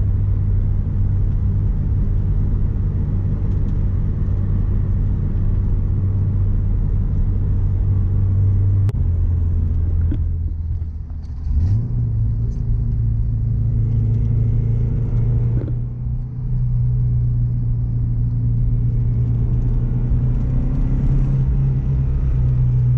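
Car engine and leaking exhaust droning steadily under way. The pitch drops about nine seconds in and comes back up a few seconds later, as with an easing off and a gear change. The owner says an exhaust leak makes it a little louder.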